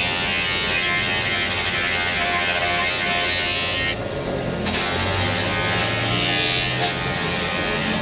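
Small electric motor buzzing steadily, with its high hiss dropping out for about half a second midway.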